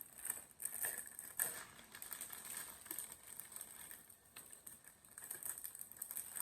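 Faint, scattered clicks and crinkling rustles.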